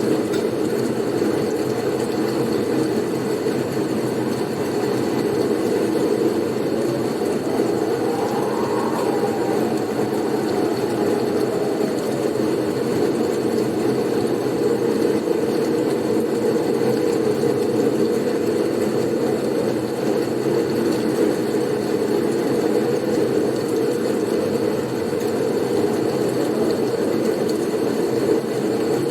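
Blizzard wind: a steady, dense rush of wind noise, swelling briefly into a higher gust about eight to ten seconds in, with a faint thin whistle above it.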